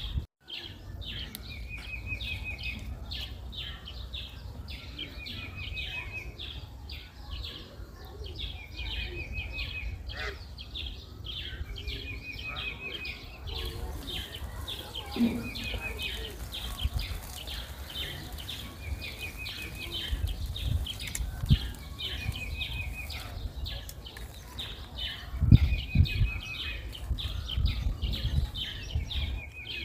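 Birds calling in the background: one repeats a short trilled phrase about every two seconds among scattered higher chirps, over a steady low rumble with a few dull thumps near the end.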